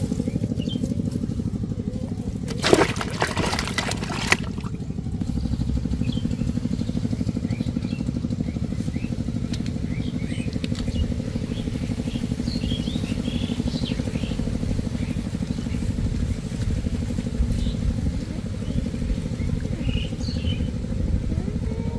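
A small engine running steadily at an even pace, with a brief loud burst of noise about three seconds in.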